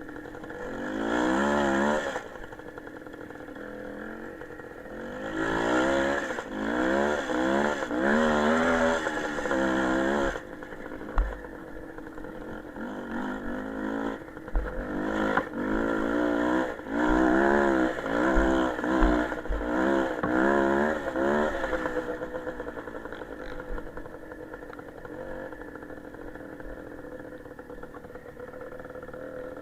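Small motorcycle engine revved over and over, its pitch rising and falling quickly in several loud stretches, then settling to a steadier, quieter run for the last several seconds.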